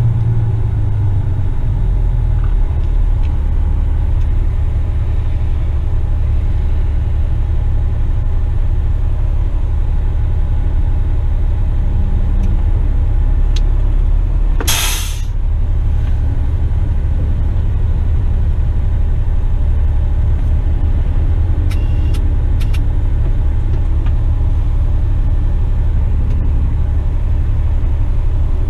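Western Star tipper truck's diesel engine running with a steady low rumble. About halfway through comes one short, loud hiss of released air from the air brakes, and a few faint clicks follow later.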